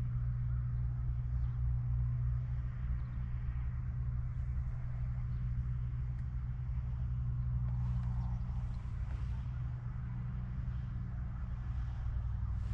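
A steady low mechanical hum, like a distant engine, with no shots.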